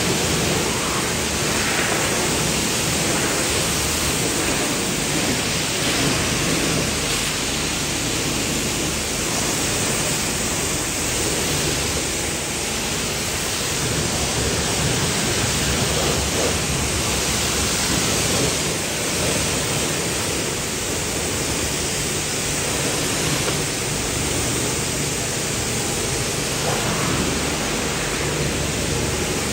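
Steady spray of water from a pressure washer hitting a car's bodywork, a continuous hiss with a low hum beneath it.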